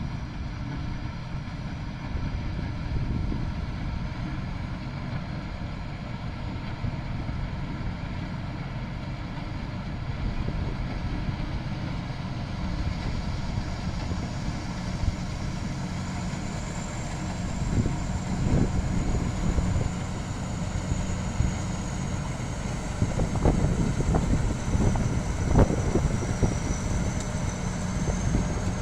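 Rice combine harvester running steadily under load while harvesting, with a faint high wavering whine from its machinery. A few short clattering knocks come in the second half.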